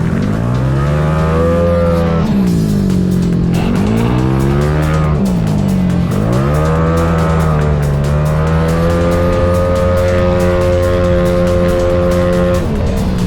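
Engine of a 237cc fully tuned racing scooter (Gryphus engine in a Cygnus chassis) running on track. The revs fall and climb several times, then hold one steady pitch for a few seconds before dropping off sharply near the end.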